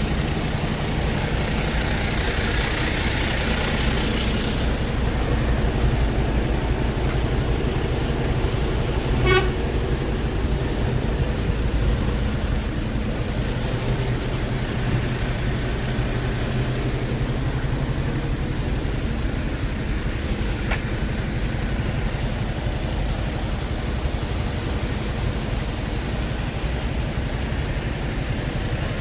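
Scania R tractor unit's diesel engine idling steadily. A hiss sounds over the first few seconds, and a short, sharp toot about nine seconds in.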